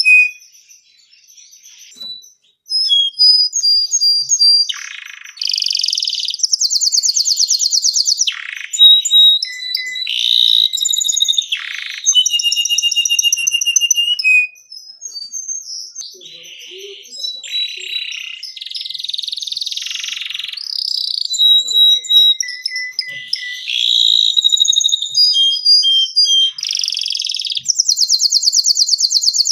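Domestic canary singing a long, continuous song of rapid trills, fast buzzy rolls and clear whistled notes, with a brief pause about a second in.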